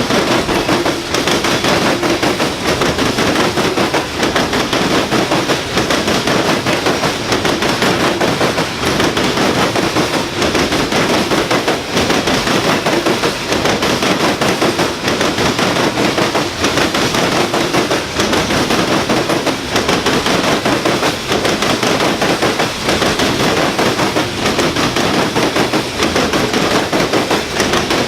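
Loaded coal cars of a freight train rolling past close by, their steel wheels clattering rapidly and continuously over the rail joints, with a rumble beneath.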